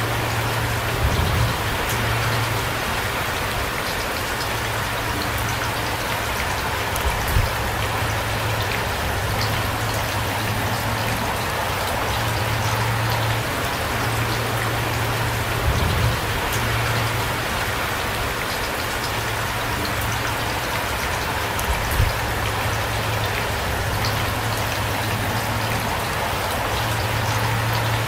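Heavy rain falling steadily, a dense, even patter of drops, with a few brief low thumps spread through it.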